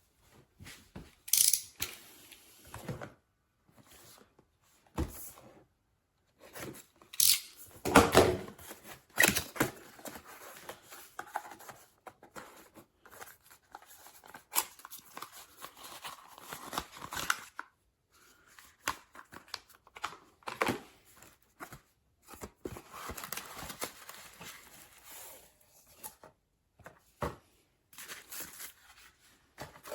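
Crinkling and rustling of packaging being handled, broken by scattered clicks and knocks, loudest about a third of the way through.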